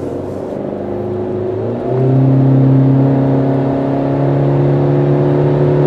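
Car engine drone heard from inside the cabin, a 2018 Honda Civic Hatchback Sport's 1.5-litre turbocharged four-cylinder pulling onto the road. It steps up in pitch and gets louder about two seconds in, then holds steady.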